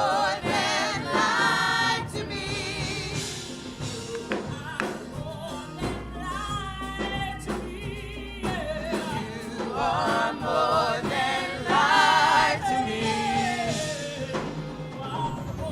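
Gospel singing with a choir and band, voices held and wavering with vibrato over a steady beat.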